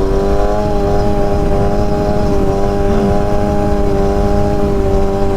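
Stunt motorcycle engine held at steady revs on a constant throttle, its pitch level throughout, as when a wheelie is balanced on the throttle alone without the brakes. Wind rumble sits underneath.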